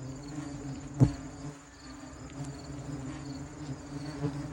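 Angry bald-faced hornets buzzing close around the microphone, a steady low drone, after their nest has been disturbed. A single sharp knock about a second in.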